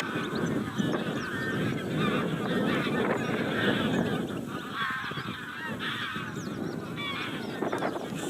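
A flock of European goldfinches calling together: many overlapping twittering chirps.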